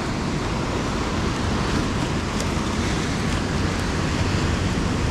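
Steady rush of wind and surf, with wind rumbling on the microphone.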